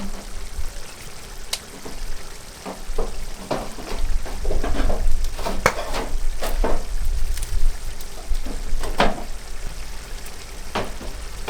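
Chicken frying in a karahi over a wood fire on high heat, sizzling, with irregular scrapes of a spatula stirring against the pan.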